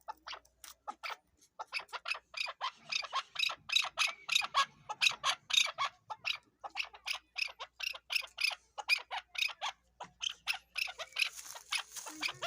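Chukar partridge calling: a long, fast series of harsh "chuck" notes, several a second.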